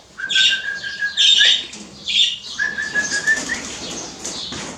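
Caged pet birds chirping and calling, with quick high chirps and two long, steady whistle-like notes.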